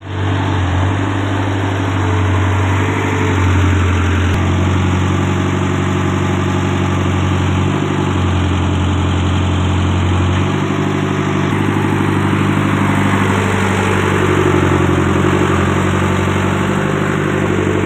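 Caterpillar 422F2 backhoe loader's diesel engine running at a steady speed, its pitch shifting slightly a few times.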